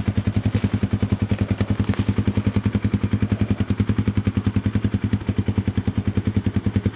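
Small vehicle engine running at low speed with an even chugging pulse, about eight beats a second.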